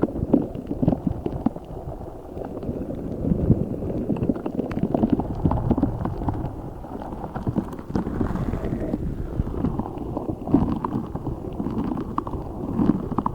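Hands squeezing and kneading a giant spiky orbeez-filled squishy ball close to the microphone: continuous squelching and crackling of the water beads inside, with many small clicks.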